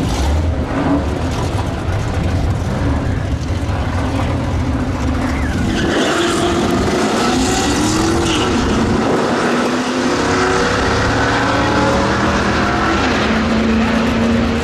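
Drag-racing car engines at a drag strip: a heavy low rumble, then from about six seconds in, several engine notes rising and falling as the cars rev and accelerate, settling into a steady held note near the end.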